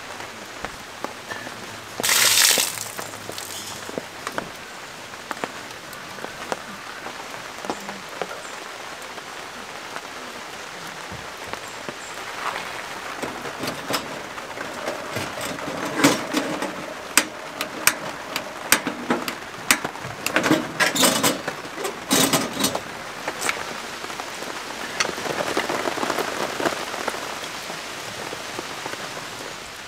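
Steady rain falling on a tent, with a brief loud rush about two seconds in and a run of sharp taps and knocks through the middle.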